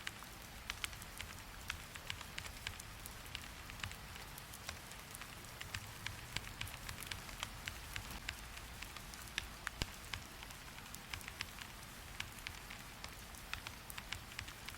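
Steady rain with many irregular sharp clicks of computer keyboard typing mixed in.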